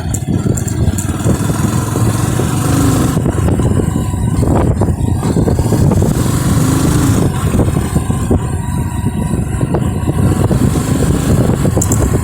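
Motorcycle being ridden, its engine running under a steady, loud rush with many small rattles and knocks.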